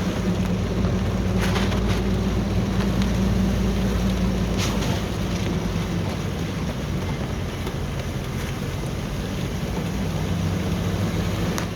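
Car interior on the move: a steady engine hum and road noise, with a few brief clicks.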